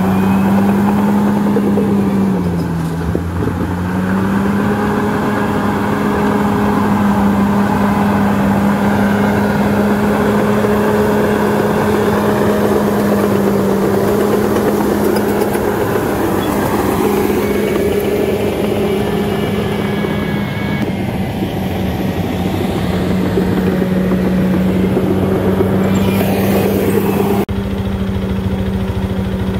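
Bulldozer's diesel engine running steadily, with a brief drop in pitch about two to four seconds in as the load changes, and an abrupt shift in the sound near the end.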